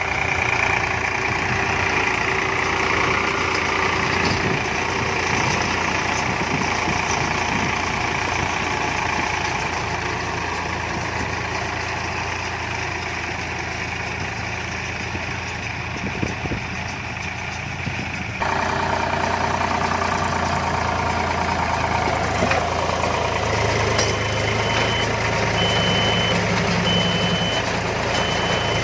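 Preet 4549 tractor's diesel engine running steadily while working with a baler; the sound changes abruptly about two-thirds of the way through. Near the end a high electronic beep repeats about once a second.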